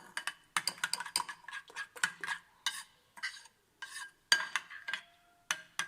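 A spoon stirring spiced yogurt in a bowl, scraping and clinking against the bowl in irregular bursts with short pauses between them.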